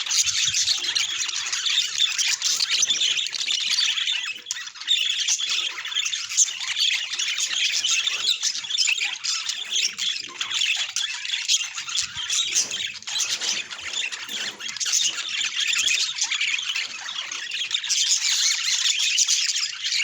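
Budgies chattering and squawking continuously in a dense, busy stream of high calls.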